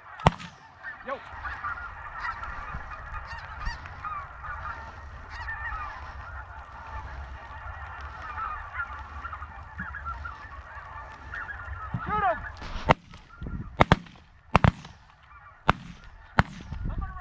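A large flock of geese calling, many overlapping honks in a constant clamour, over a low wind rumble on the microphone. There is a single shotgun report just after the start; from about 13 seconds in, about six more shots come in quick succession and the calling thins out.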